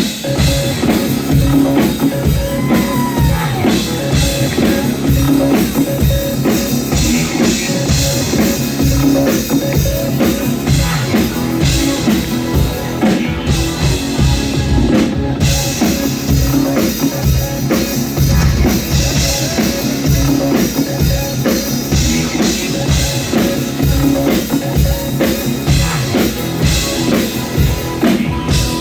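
Rock band playing, the drum kit to the fore with a steady beat.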